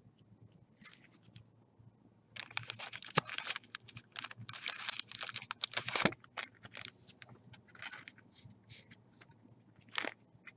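Trading cards and their plastic packaging being handled: a run of rustling, scraping and crinkling with small clicks, densest a couple of seconds in for about four seconds, then scattered.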